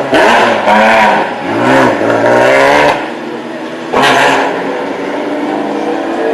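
Racing engines revving hard, their pitch rising and falling through the first three seconds, then a short loud rush of noise about four seconds in, followed by a steadier engine drone.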